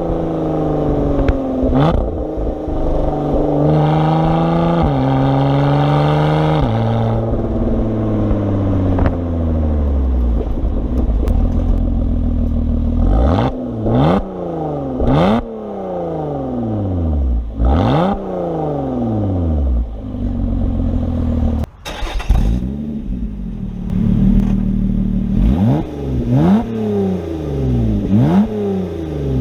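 Lotus Evora's Toyota-sourced 3.5-litre V6 under hard acceleration, its pitch climbing and stepping down at each of a few gear changes. Later it gives a series of sharp rev blips, each shooting up and dying away. The blips fit rev-matched downshifts on the manual gearbox.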